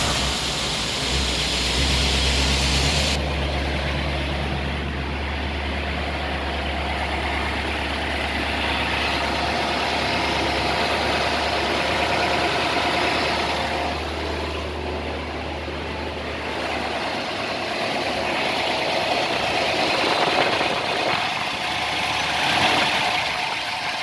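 1955 Ford Thunderbird's 292 Y-block V8 running steadily at a slightly raised fast idle, held up by the automatic choke's fast-idle step just after starting. The deep low note eases off about three-quarters of the way through.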